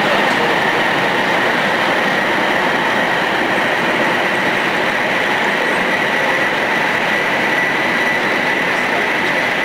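Tohoku Shinkansen train running steadily, an even rushing noise with a steady high whine over it.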